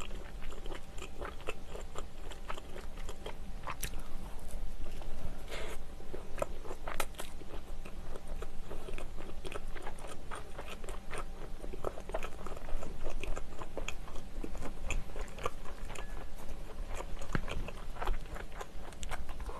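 Close-up chewing of a sausage-and-onion bread roll: irregular soft crunches of biting and chewing the baked crust, with a sip of milk from a glass near the end.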